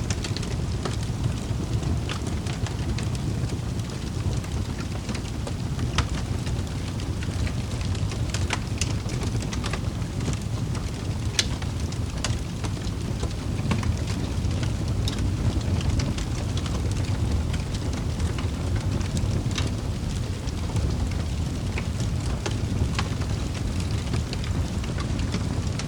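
Wood fire crackling in a fireplace: a steady low rumble of burning with irregular sharp pops and snaps scattered through it.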